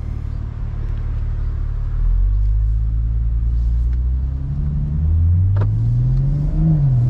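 BMW M440i Convertible's turbocharged straight-six running through an AC Schnitzer sport exhaust in Sport Plus, pulling harder about two seconds in, then rising steadily in pitch as the car accelerates. The pitch drops briefly near the end at a gear change and climbs again, with a single sharp click just before it.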